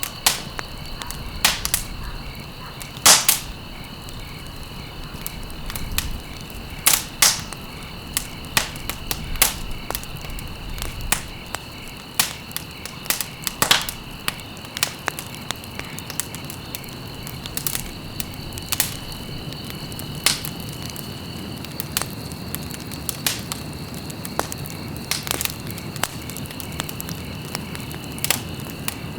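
Campfire burning with irregular sharp crackles and pops over a low rumble, the loudest pop about three seconds in. A steady high chirring of crickets runs underneath.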